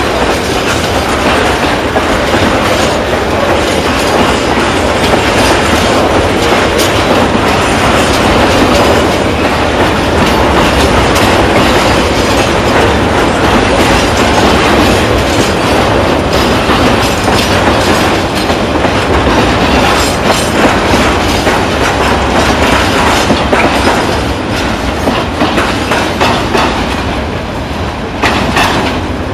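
Freight train of tank wagons rolling past, loud and steady, wheels clattering over the rail joints; the sound eases a little near the end.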